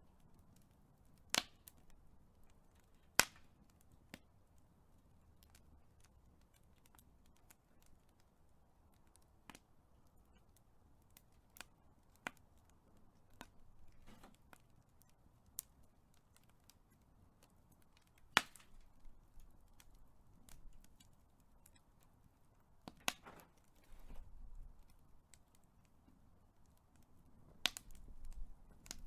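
A big fire crackling: sharp, irregular pops and snaps, a few of them much louder than the rest, over a faint low rumble of the flames.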